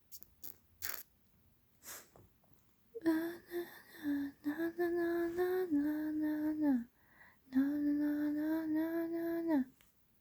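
A female voice humming a slow tune in two phrases of long held notes, after a few light clicks near the start.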